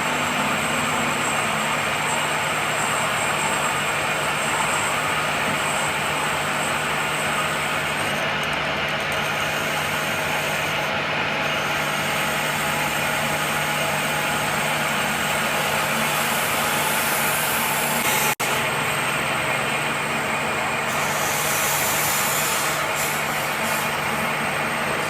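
Steady workshop machine noise with a constant low hum. There is a brief dropout about 18 seconds in.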